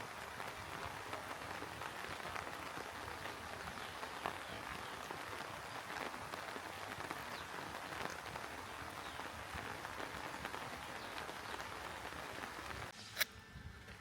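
Steady rain falling on surfaces, a dense hiss with many small individual drop ticks. Near the end the rain sound drops away abruptly and a single sharp click follows.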